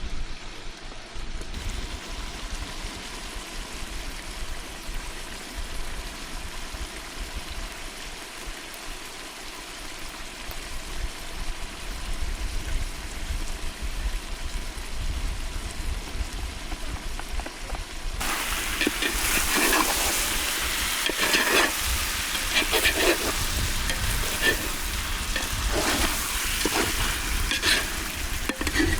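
Food sizzling and frying over an open cooking fire: a steady hiss, joined about two-thirds in by louder clicks and knocks of stirring and handling.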